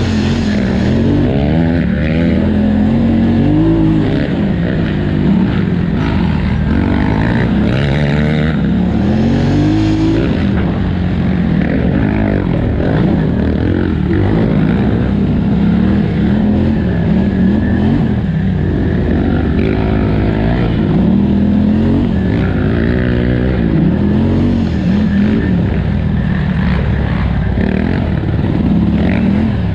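2018 Polaris Scrambler XP 1000's parallel-twin engine racing under hard throttle, its pitch repeatedly climbing and dropping every couple of seconds as the rider accelerates and backs off over rough cross-country terrain.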